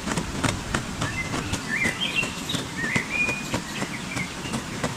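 Knife chopping chilies on a cutting board: a string of irregular short knocks. A bird chirps faintly a few times in the background.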